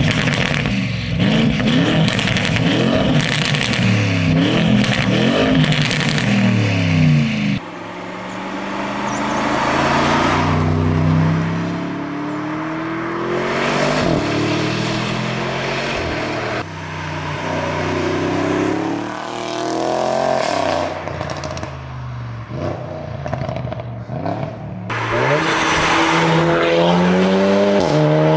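Tuned Audi RS performance cars with aftermarket exhausts accelerating hard in several separate passes. The engine note climbs through each gear and drops back at every upshift.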